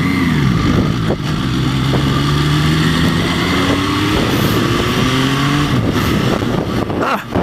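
Motorcycle engine running under way, with wind rushing on the microphone. Its pitch falls at the start, holds steady for several seconds, then drops again about six seconds in.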